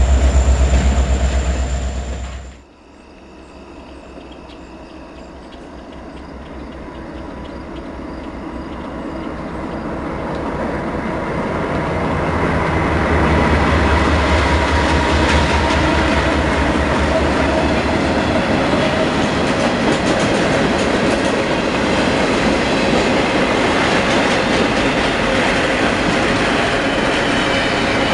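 A loud, low diesel locomotive rumble cuts off suddenly about two and a half seconds in. Then a passing train builds up gradually over about ten seconds, and its wheels clatter steadily over the rail joints as the cars roll by.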